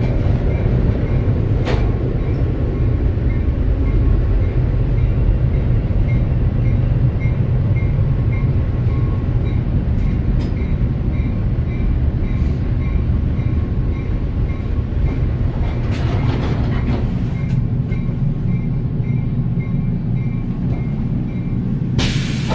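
Metra commuter train heard from inside the coach: a steady low rumble of the wheels on the rails as it slows into a station, with a faint high beep repeating about twice a second. Near the end there is a sudden burst of noise.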